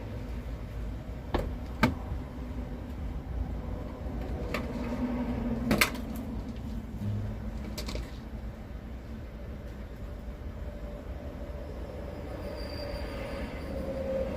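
A handful of sharp knocks and clunks over a steady low rumble, like car doors and panels being opened, shut and handled while a car is cleaned out.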